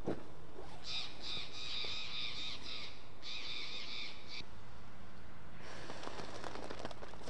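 A bird's harsh, raspy calls in two runs, each a quick series of grating notes. Crackling rustles start near the end.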